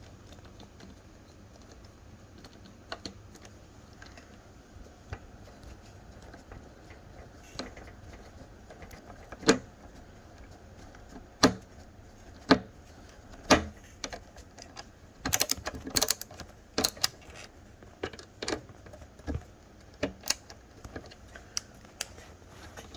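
Irregular light clicks and taps of a screwdriver and metal shower fittings being handled and fastened, with a few sharper knocks and a quick run of clicks a little past the middle.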